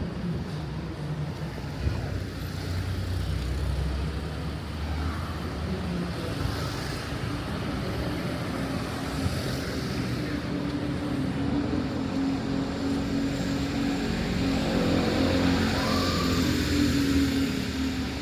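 Road traffic: car engines running steadily, one growing louder in the last few seconds as it passes close.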